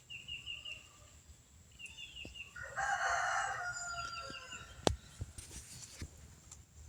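A rooster crowing once, a call of about two seconds in the middle, with small birds chirping in short runs before it and a single sharp click a little after.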